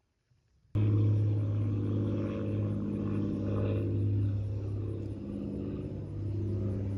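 Steady low mechanical drone that cuts in abruptly about a second in.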